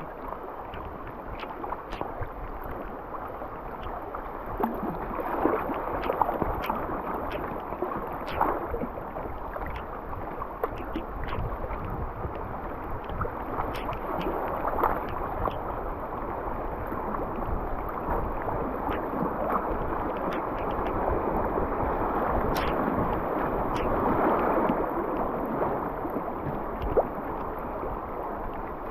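Moving river water splashing and gurgling around a kayak. The rush swells and eases irregularly, with a few sharp little knocks or drips here and there.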